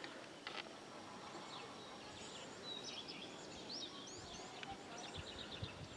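Small birds chirping and twittering faintly over quiet rural outdoor ambience, with a quick run of chirps near the end. A single soft click about half a second in.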